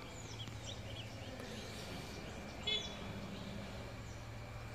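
Small birds chirping in short calls, with one louder call sweeping downward nearly three seconds in, over a steady low hum.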